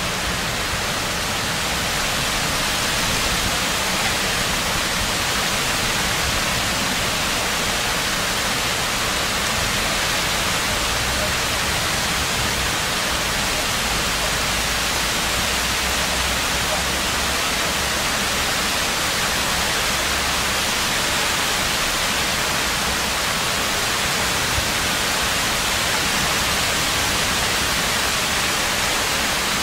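Heavy thunderstorm rain falling steadily, an even, unbroken hiss.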